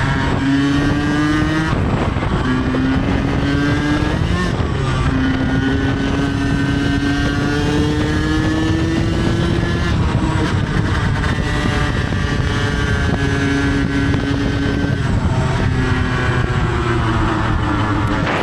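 Dirt bike engine being ridden hard, climbing in pitch and dropping back several times as it shifts gear.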